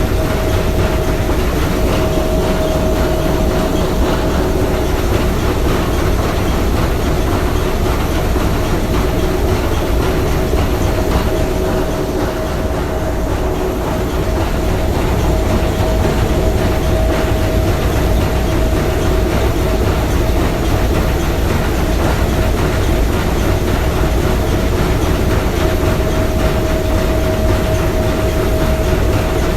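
Three-cylinder triple-expansion marine steam engine of the S.S. Bohuslän running steadily: a loud, continuous mechanical clatter with a steady tone held over it.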